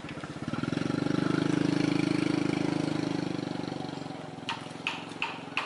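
An engine running with a steady, rapid pulse, swelling louder for a couple of seconds and then fading; a few sharp clicks near the end.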